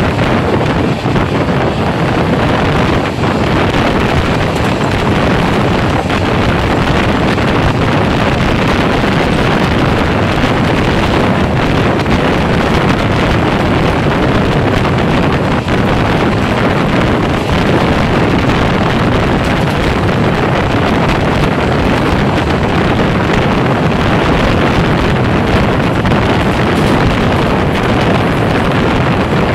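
Wind rushing over the microphone, mixed with the steady running noise of a passenger train's wheels on the rails, heard from outside the door of a coach moving at speed.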